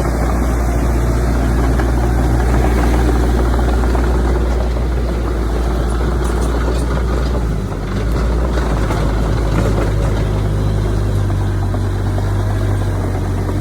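Heavy diesel engine of earthmoving machinery running steadily under load. There is a brief dip about eight seconds in, after which its note shifts.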